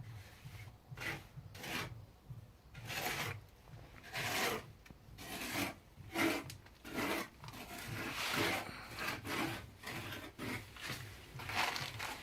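Rasping scrapes of a trowel spreading and smoothing wet cement mortar, about a dozen uneven strokes, roughly one a second.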